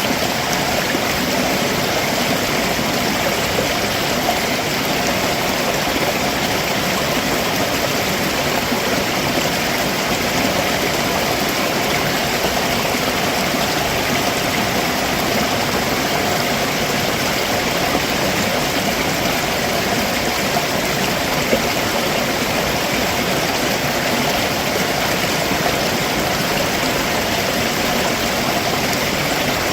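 A rocky stream flowing below a waterfall: water rushing and splashing over rocks in a steady, even wash.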